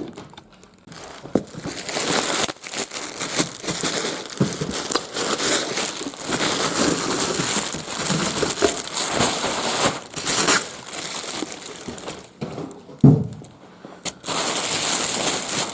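Bubble wrap packaging being pulled apart and unwrapped: a long run of uneven plastic crinkling and crackling, with a few brief pauses.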